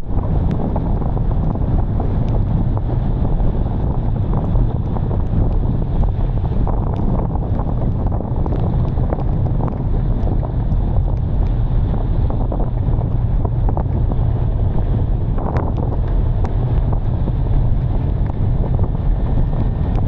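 Wind buffeting the microphone in heavy rain: a steady, loud low rumble with scattered light clicks throughout.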